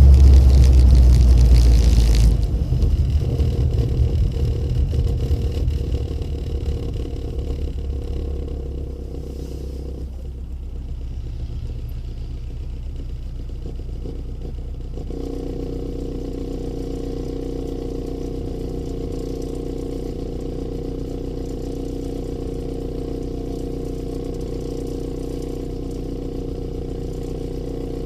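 Rover Mini's A-series four-cylinder engine through an aftermarket HKS / Rookie sports muffler, loud under throttle at first, dropping off sharply about two seconds in. The note fades as the car coasts and slows, then settles into a steady idle.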